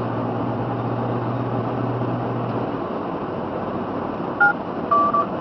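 Steady running noise of a car heard from inside, with a low hum that fades out about two and a half seconds in. Near the end come two short electronic beeps, each of two tones sounding together.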